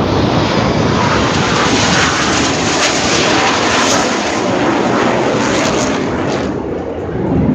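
Loud roar of a jet aircraft flying past, steady and dipping slightly near the end.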